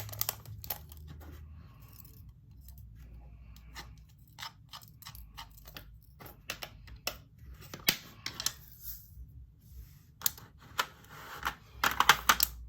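Diamond-painting resin drills and small plastic storage containers being handled: scattered clicks and short rattles, sparse in the middle and bunching up near the end.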